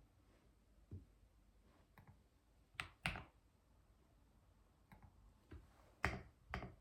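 Computer keyboard keys struck now and then: a handful of separate keystrokes at uneven gaps, two of them louder, around three and six seconds in.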